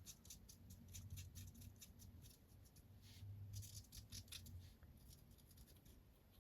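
Faint, quick, scratchy strokes of a Spectrum Noir Tri-Blend alcohol marker nib on card, repeated in short runs while colouring in.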